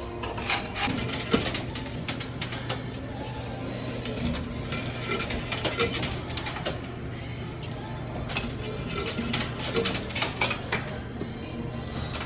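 Quarters clinking and clattering in a coin pusher arcade machine as coins drop in and hit the moving shelf and the piled coins, over the machine's steady low hum.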